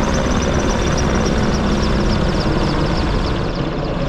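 Merlin helicopter flying low overhead: the loud rush of its turbines with the fast, even chop of its rotor blades, easing slightly near the end.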